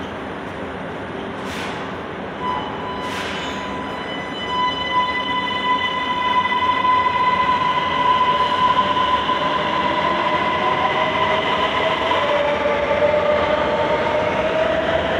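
Ankara Metro train moving at the station: a steady rumble with a high electric-motor whine that starts about two and a half seconds in, getting louder from about four seconds in, and a lower whine rising in pitch near the end.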